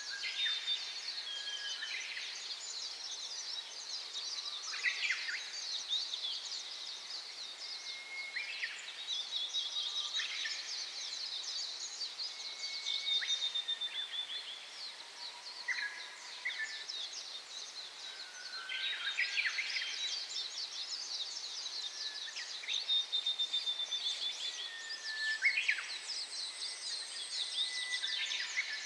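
Small wild birds calling with short chirps and brief whistled notes, repeated irregularly over a continuous high-pitched chirring chorus.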